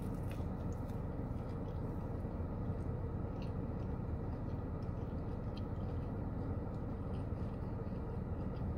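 A person chewing a mouthful of fried fish sandwich with mouth closed, giving a few faint soft clicks, over a steady low hum inside a car cabin.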